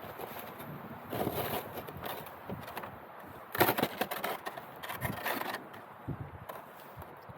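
Roof rake scraping and dragging snow off a roof in three or so rough strokes, the loudest about three and a half seconds in.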